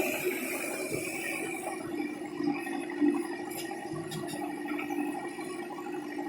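Tractor diesel engine running steadily, with light mechanical rattling.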